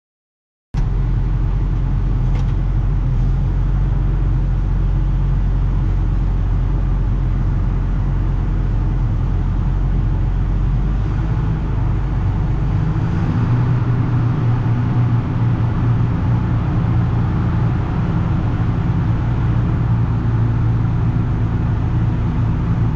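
Heavy diesel engine running steadily, cutting in abruptly just under a second in; its low note shifts about halfway through, as if the engine speed or load changes.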